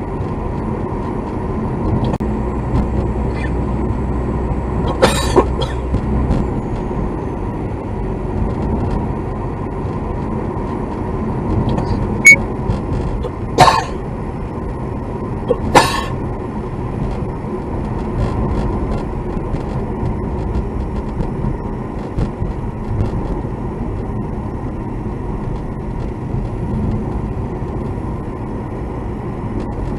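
A vehicle running with a steady low rumble. A few short, sharp clicks or knocks break through, about four of them, near the middle.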